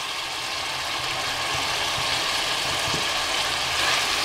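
Onions, ginger-garlic paste and freshly added chopped tomatoes sizzling in hot oil in a pressure cooker, stirred with a ladle. The hiss is steady and grows a little louder near the end.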